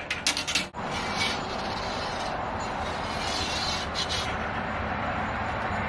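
A few quick metallic clicks, then a steady scraping rub as the anode rod's bare steel core wire is dragged out through the water heater's threaded port. The magnesium has corroded away completely, leaving only the wire.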